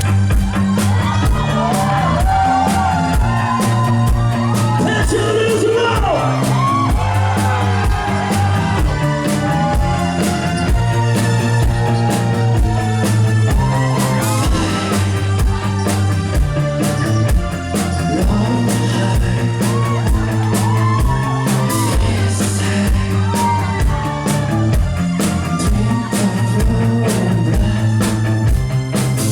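Rock song with a male vocalist singing over bass guitar and a steady drum beat.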